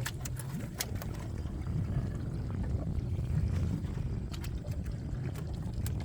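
Steady low rumble on an open fishing boat at sea, with scattered sharp clicks and knocks, a cluster of them in the first second and another about four seconds in.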